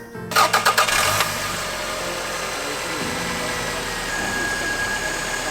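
Toyota Celica engine cranked by the starter, with a quick run of about six beats for under a second. It catches and settles into a steady run.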